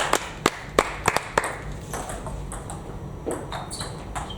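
Table tennis ball clicking sharply off bats and table in a quick rally, a hit every few tenths of a second, then stopping about a second and a half in. After that only fainter scattered ball clicks and a few short high squeaks.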